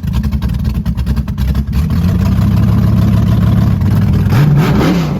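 Car engine pulling hard under acceleration, its note rough at first and then climbing steadily, with a quick rise and fall in pitch near the end.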